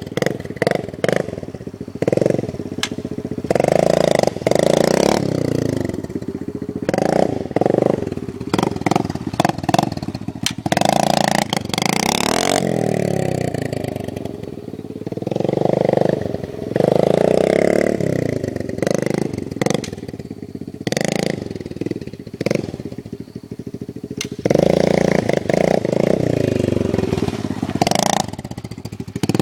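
Kawasaki dirt bike engine revved hard again and again, its pitch rising and falling between throttle bursts, with sharp clicks in the first few seconds.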